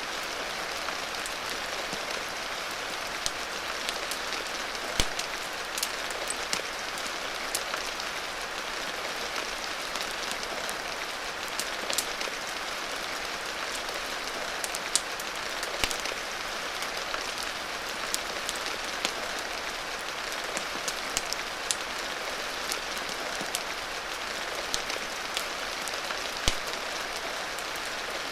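Steady rain falling, mixed with a wood fire crackling: scattered sharp pops stand out above the even hiss of the rain, the loudest about five seconds in and near the end.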